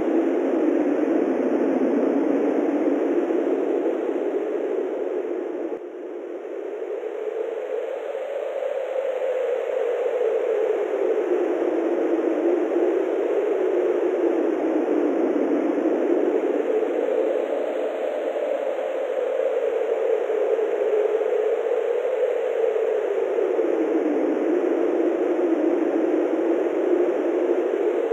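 Wind blowing steadily in a rushing whoosh whose pitch drifts slowly up and down, easing briefly about six seconds in.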